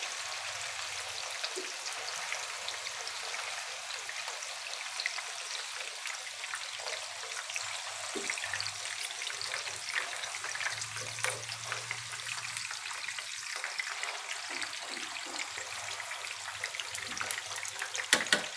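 Chicken and paneer kabab skewers frying in hot groundnut oil in a pan: a steady bubbling sizzle with fine crackles. A few sharp clicks near the end as metal tongs turn the skewers.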